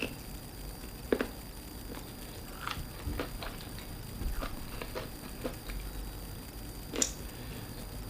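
Close-miked eating of seafood: wet chewing and mouth smacks with scattered sharp clicks, the sharpest about a second in and again near the end.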